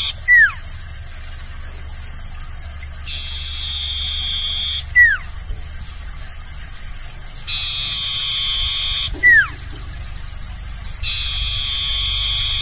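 Barn owl giving its long hissing screech over and over, each screech lasting nearly two seconds and coming about every four and a half seconds. A short, loud falling whistle follows each one.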